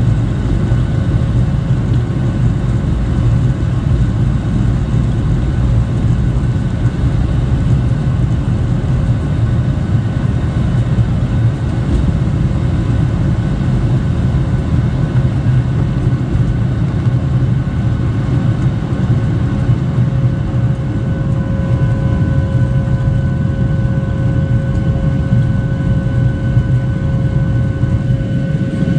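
Boeing 737-800 cabin noise: a steady low rumble and hum from its CFM56 turbofans and airflow, with a thin steady whine that grows stronger about two-thirds of the way through.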